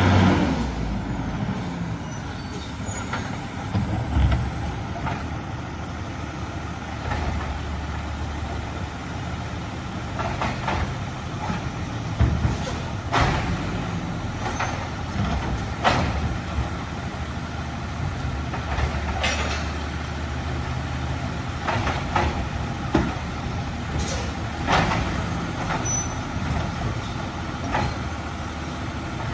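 Garbage truck running steadily with a low engine drone, broken every few seconds by brief sharp bangs and clanks.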